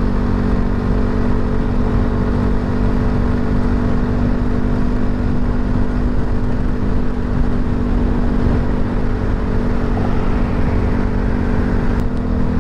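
Voge 300 Rally single-cylinder motorcycle engine cruising at a steady highway speed, its even hum under a constant rush of wind.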